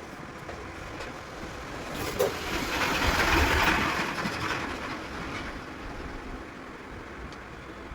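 A vehicle passing by: a swell of noise rises about two seconds in, peaks and fades away over the next few seconds, with a short knock as it begins.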